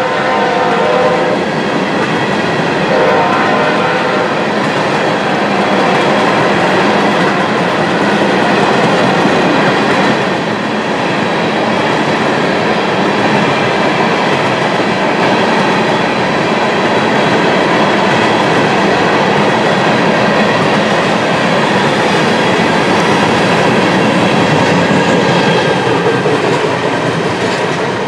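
CSX freight train of diesel locomotives and tank cars passing: engines running and wheels clattering over the rail joints in a steady, loud rumble. A locomotive horn trails off in the first second.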